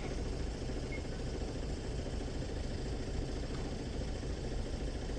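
A road vehicle's engine idling nearby, a steady low rumble.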